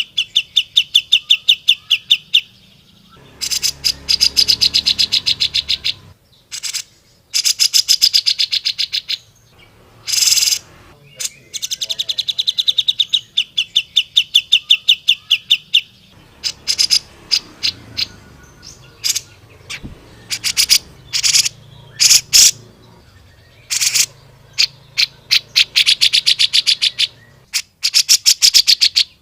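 Cucak jenggot (grey-cheeked bulbul) singing loud, rapid chattering phrases of about ten sharp notes a second, each phrase lasting two to three seconds, with short pauses between them. Near the middle there are scattered single notes instead of phrases.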